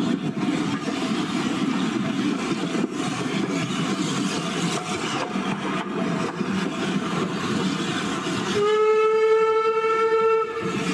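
Heritage passenger train running along the line, heard from a carriage window: a steady rumble of wheels on track with a few sharp clicks. Near the end the locomotive sounds one loud, steady blast of about two seconds on a single pitch.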